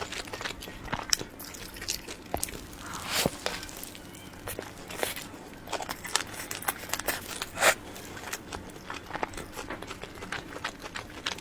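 Close-miked eating of soft cream-filled cake rolls: irregular wet mouth clicks and chewing, with a louder, longer bite or smack about three seconds in and the loudest one near eight seconds.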